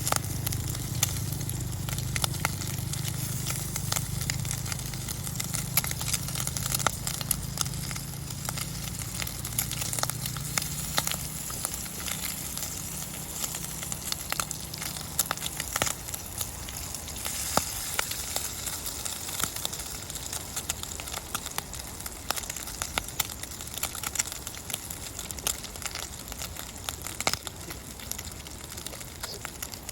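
Crackling and sizzling from a campfire: many sharp pops over a steady hiss. A low hum in the first half fades out about halfway through.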